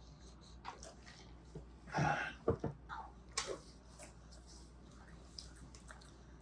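Quiet eating and snack-handling noises: faint clicks and rustles, with a louder rustle about two seconds in followed by two sharp knocks.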